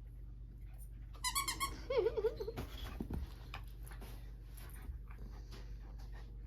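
Dog whining briefly about a second in: a high wavering whine followed by a lower wavering one.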